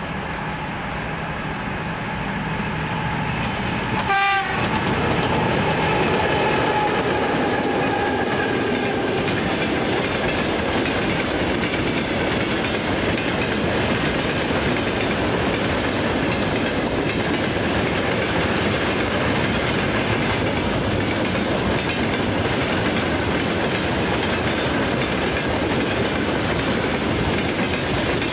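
A train passing close by: a short horn blast about four seconds in, then the steady rumble and clatter of wheels on the rails as it goes by.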